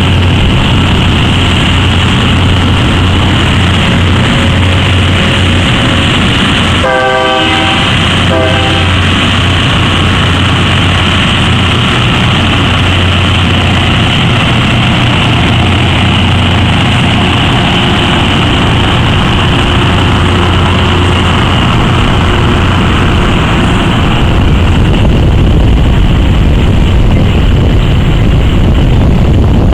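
Loram rail grinder train rolling past, its diesel engines running with a steady low hum over the noise of wheels on the rails. About seven seconds in, a train horn sounds twice, a longer blast then a short one.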